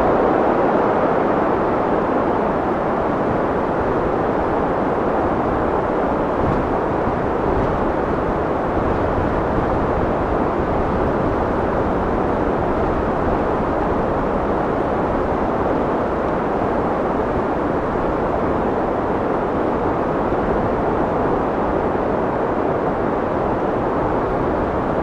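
Steady rushing wind, a continuous even blow with no gusts or breaks, easing slightly in level over the stretch.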